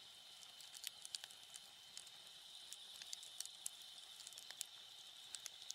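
Wood fire crackling: faint, irregular sharp pops and snaps, about two a second, over a steady high-pitched drone.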